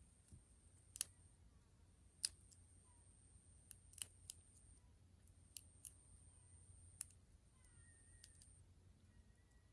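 About a dozen sharp clicks and pops at irregular intervals, over a faint, steady, very high whine.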